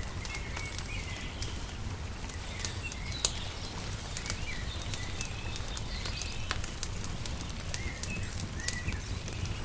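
Wood fire crackling, with scattered sharp pops and one louder pop about three seconds in, over a low steady rumble. Small birds chirp short gliding calls every second or so.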